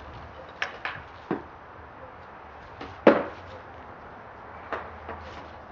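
About six sharp knocks and clacks of gear being handled while a paddle and straps are fitted to a kayak. The loudest comes about halfway through.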